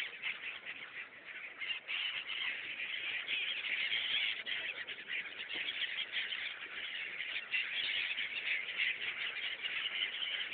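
A flock of migratory birds calling continuously over the river, many squawking calls overlapping into a dense chatter.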